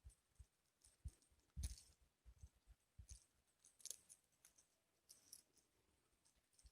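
Near silence, broken by faint, irregular clicks and soft low thumps.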